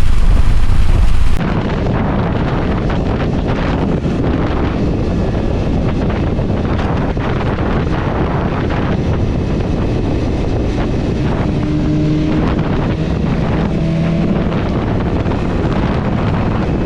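Wind buffeting the microphone over the sound of a moving vehicle on the road, a steady rush with a faint engine note beneath. About a second and a half in, a louder, deeper rumble cuts off abruptly and the steady rush takes over.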